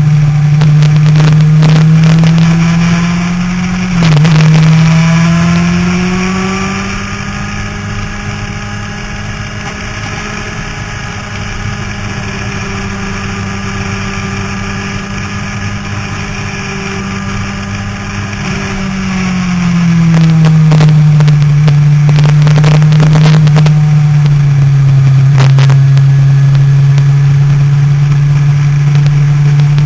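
Motorcycle engine at track speed, heard from an onboard camera. It is loud at first, with a quick change in pitch about four seconds in, runs quieter and steadier through the middle, then grows loud again from about twenty seconds as the pitch drops to a lower, steady note.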